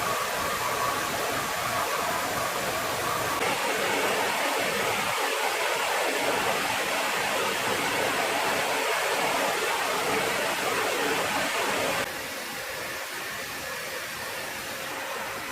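Jet aircraft engines running, a steady loud noise. The sound changes abruptly about three seconds in and drops to a lower level near the end, as the footage cuts between shots.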